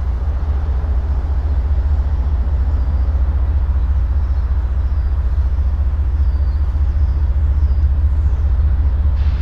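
CSX freight train rolling past with a steady low rumble, and a single sharp knock near the end.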